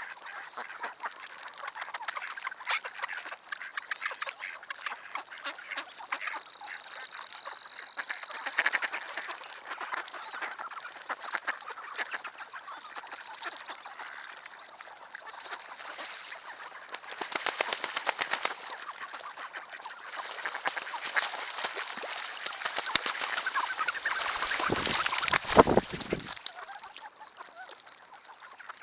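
A large flock of ducks, mainly mallards, quacking and chattering continuously in dense overlapping calls. The din swells twice and is loudest a little before the end, where a brief low rumble joins it.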